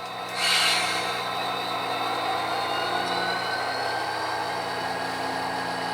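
HO scale model diesel locomotive's sound decoder playing diesel engine sound as the locomotive pulls away under load, a steady engine note with a faint whine slowly rising in pitch.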